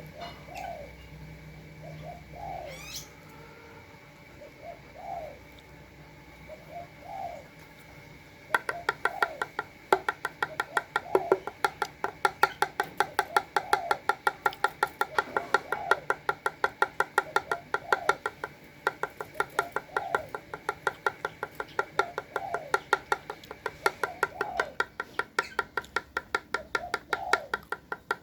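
A spotted dove cooing in short, repeated low notes. About a third of the way in, rapid sharp tapping starts, several taps a second, louder than the coos: a beak pecking at feed.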